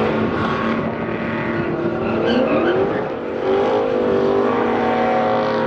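A pickup truck doing a burnout: engine held at high revs with the tires spinning and squealing against the pavement, the engine pitch swinging up and down a couple of seconds in.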